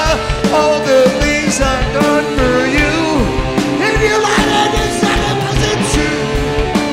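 Live rock band playing loud, with electric guitar, bass and drums; pitched lines glide up and down over the steady beat.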